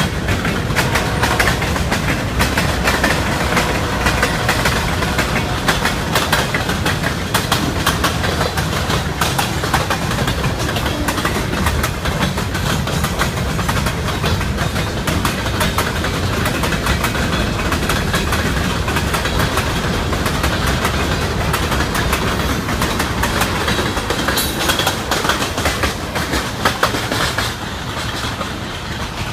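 Freight train rolling past, its car wheels clattering over the rail joints and grade crossing in a dense run of clicks. The sound eases somewhat near the end.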